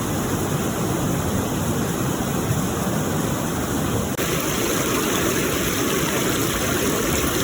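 Steady rushing water, loud and even, with a slight change in its sound about four seconds in.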